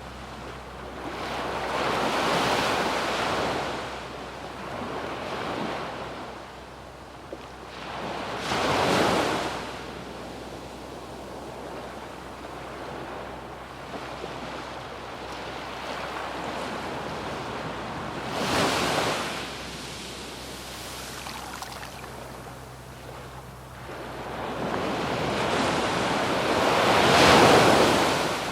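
Sea waves breaking and washing up a sandy beach. Four surges swell and fall away over a steady hiss of surf, and the last near the end is the loudest.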